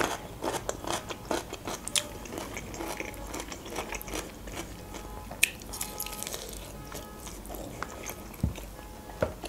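A person chewing rotisserie chicken with irregular wet mouth clicks and smacks, while tearing the meat apart by hand.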